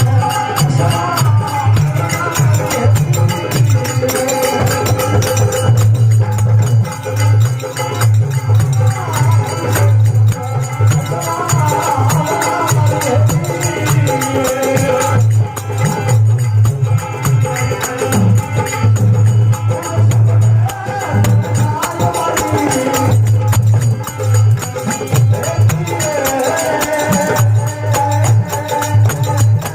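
Rajasthani folk bhajan music: a dholak keeps a steady driving rhythm, with jingling percussion and a wavering melody line over it.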